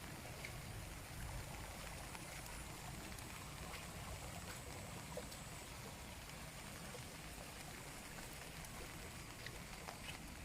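Steady rain falling, with a few scattered drops ticking.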